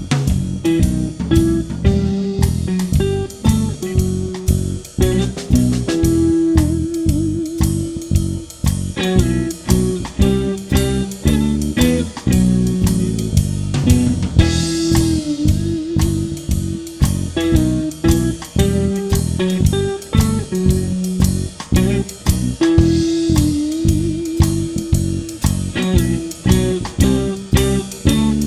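A blues band plays an instrumental break with guitar, bass guitar and drum kit keeping a steady beat.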